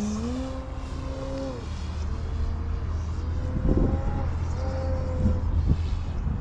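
Electric motor and propeller of a 67-inch SkyWing ARS 300 RC aerobatic airplane whining in flight, its pitch stepping up and down with throttle changes and fainter in the second half. A few short rumbles come near the middle and near the end.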